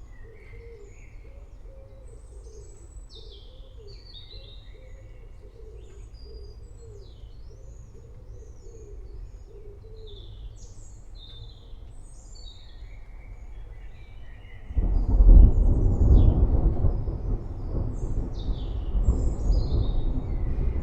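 Songbirds chirping and singing, with a low call repeated over and over underneath for the first twelve seconds or so. About fifteen seconds in, a loud roll of thunder breaks in suddenly and keeps rumbling.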